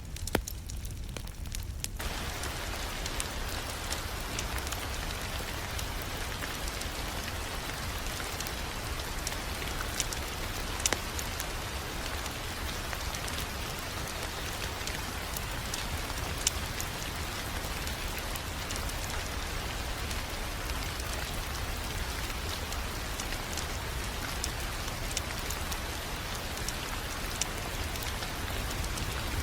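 Wood fire crackling in a fireplace: a steady hiss with scattered sharp pops and a low rumble beneath. The hiss fills out about two seconds in.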